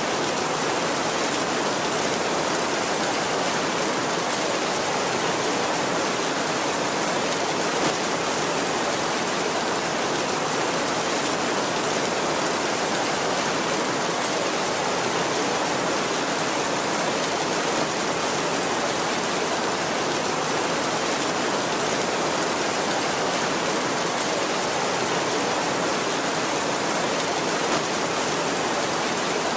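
Heavy rain falling on a tin roof: a steady, dense hiss that never lets up.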